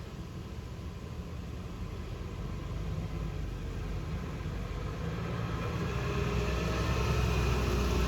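Heavy vehicle's engine approaching, its running growing steadily louder, with a higher whine coming in over the last few seconds.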